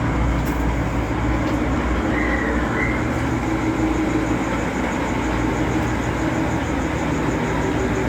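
Diesel passenger train standing at the platform with its engine idling: a steady low hum and rumble.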